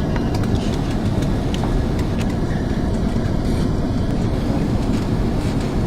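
Airbus A330 cabin noise heard from inside the cabin during approach and landing. It is a steady low rumble of engines and airflow.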